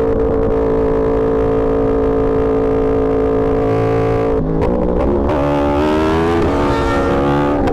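Yamaha R1 sportbike engine running at a steady pitch. From about four seconds in, its note rises and drops in steps as the revs change.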